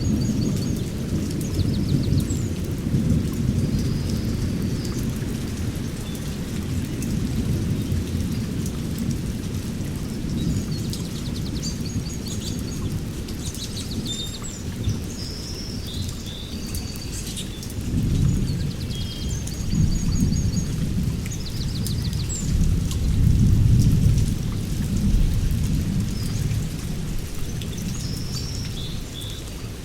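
Rain falling with low rolling thunder rumbling throughout; the thunder swells twice in the second half. Birds chirp and trill over the storm.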